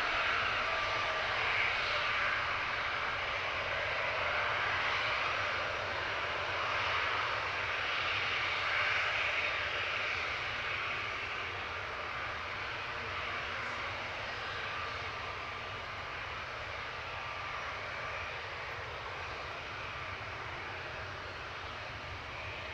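Airliner engines running, a steady rushing noise that slowly fades as the aircraft moves away.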